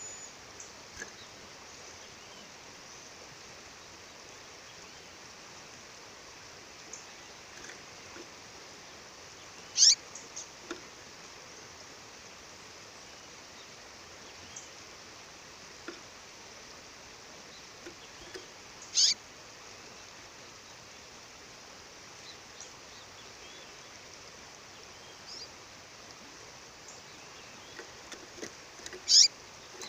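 A female songbird giving three short, high calls about nine seconds apart, with scattered faint chirps between them, over the steady rush of a waterfall.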